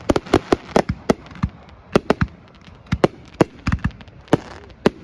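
Fireworks display going off: rapid, irregular sharp bangs and crackles, several a second and some in quick clusters, over a steady hiss.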